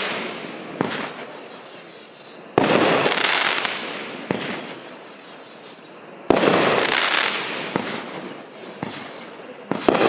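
A 200 g, 20-shot consumer fireworks cake firing its shots one after another, about six in these ten seconds, spaced roughly every one and a half to two seconds. Each shot is a sharp bang followed by a rushing burst, and several carry a high whistle that falls in pitch.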